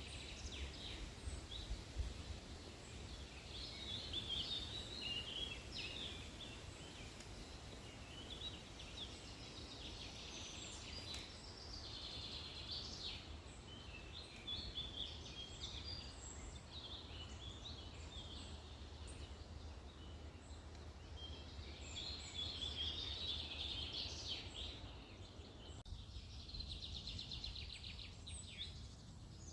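Several small songbirds singing and chirping in a forest, with many overlapping short trills and calls, over a steady low rumble.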